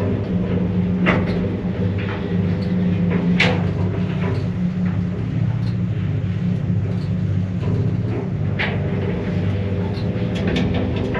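Steady low electrical hum from the door-drive induction motor on top of a moving passenger elevator car, with several sharp clicks and knocks from the car in travel. The hum comes from current flowing through one winding of the door motor while the car moves, because that winding is fed from a phase of the main drive's direction contactors.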